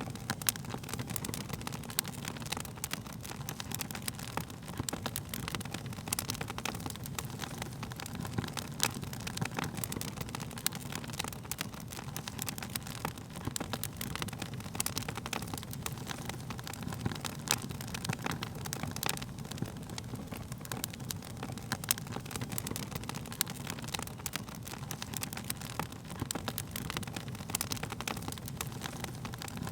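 Wood fire burning, with a steady low rumble of flames and many sharp, irregular crackles and pops from the burning wood.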